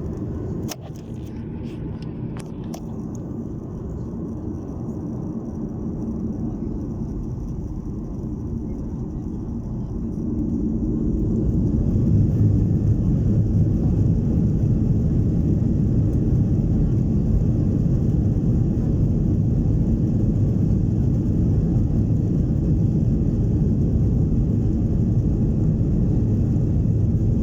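Airliner engine and cabin noise heard from inside the cabin: a steady low rumble with a few light clicks at the start. The rumble swells about ten seconds in and then holds loud, as the engines come up for takeoff.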